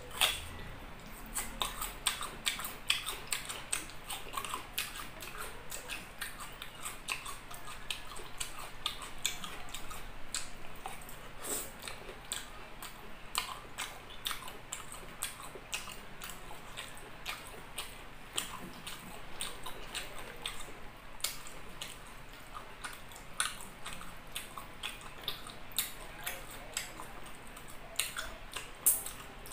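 Close-up chewing of chicken liver adobo and rice, a steady run of many short, wet mouth clicks and smacks.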